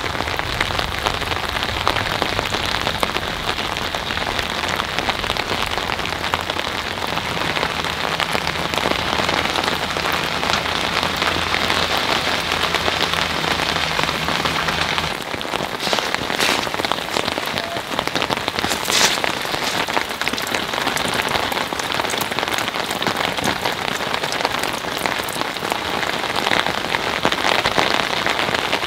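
Heavy rain falling steadily on a surface, thick with single drop ticks. A low hum under the rain stops about halfway through.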